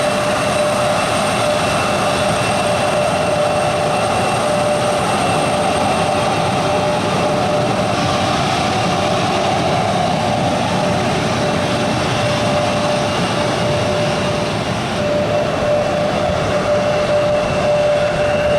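Jet aircraft's turbofan engines running: a loud, steady roar with a high whine held over it.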